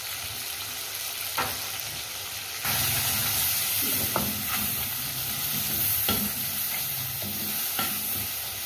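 Tomatoes, green chillies and spices sizzling in hot oil in a metal kadhai. From about three seconds in, a wooden spatula stirs them and the sizzle grows louder, with a few knocks and scrapes of the spatula against the pan.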